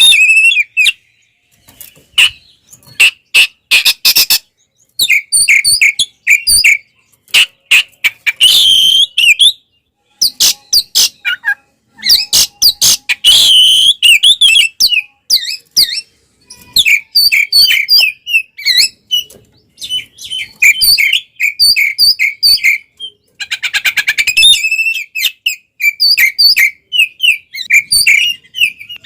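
Oriental magpie-robin (kacer) singing loudly in aggressive, fighting-mode song. Rapid harsh rattling chatters alternate with runs of short, clear whistled notes repeated several times a second, with brief pauses between phrases.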